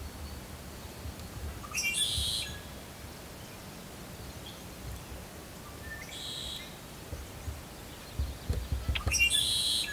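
Red-winged blackbird singing a short song three times, about four seconds apart, with a low rumble under the last one.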